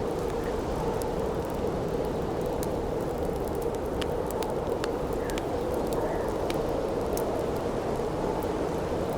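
Campfire crackling, with scattered sharp pops and snaps over a steady rush of wind.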